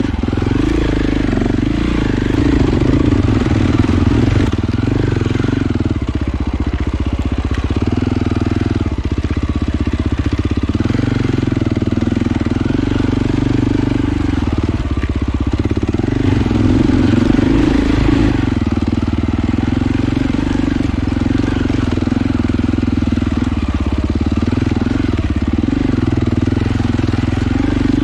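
Off-road motorcycle engine running continuously on a single-track trail, its revs rising and falling a little without a break.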